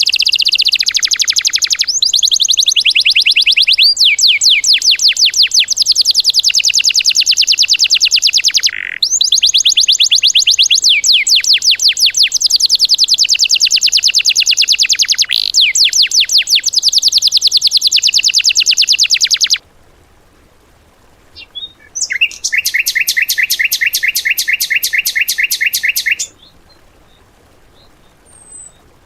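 Songbird song from a bird-training 'masteran' recording: long, very fast trills of rapidly repeated notes, each sweeping down in pitch, broken by short pauses. The singing stops about two-thirds of the way in, then a shorter, lower-pitched trill follows.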